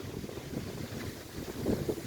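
Strong wind buffeting the microphone in uneven gusts, over waves breaking on a lakeshore.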